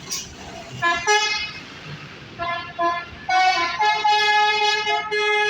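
A truck's multi-tone 'basuri' musical air horn, telolet style, sounding a quick run of short toots on changing notes, then one long held chord from about three seconds in.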